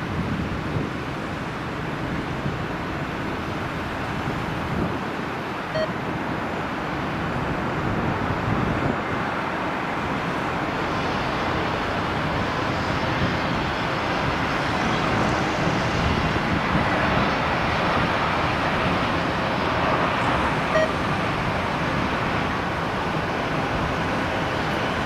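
Jet airliner engines, a steady rushing noise that grows louder about a third of the way in and is fullest in the second half, with wind buffeting the microphone.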